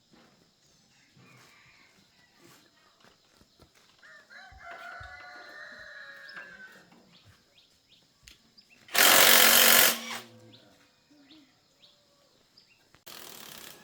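A rooster crows once, a long call with a slight fall in pitch. About nine seconds in comes a loud rush of noise lasting about a second, and a quieter one starts near the end.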